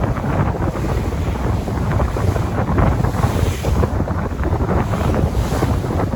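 Sea waves and surf in a continuous rush of noise, with wind buffeting the microphone and adding a strong low rumble.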